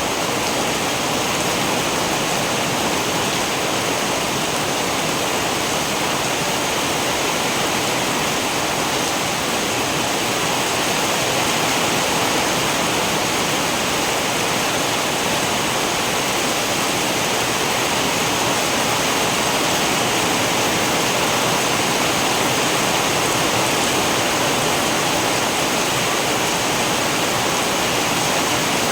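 Steady heavy rain, a dense even hiss with no distinct drops or thunder.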